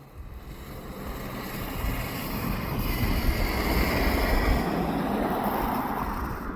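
Diesel locomotives of a departing train rumbling, the noise building over the first few seconds and then holding, mixed with wind buffeting the microphone.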